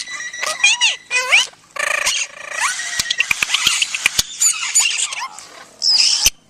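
An animal making rapid high-pitched squeaks and chirps with quick pitch slides, a string of sharp clicks midway, and a short loud squeal near the end.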